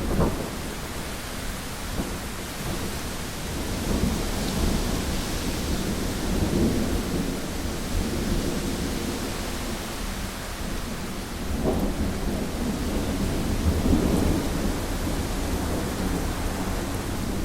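Heavy rain pattering steadily on a window, with thunder rumbling low through it in repeated swells, the clearest about 12 and 14 seconds in.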